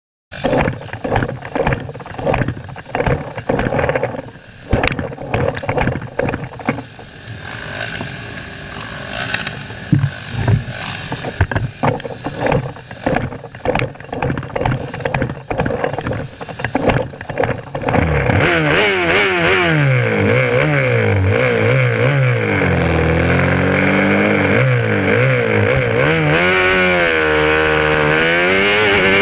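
Supermotard motorcycle engines on the starting grid, running in choppy, uneven bursts of throttle. About eighteen seconds in, the engine near the camera revs hard and pulls away, its pitch climbing and dropping again and again through the gear changes.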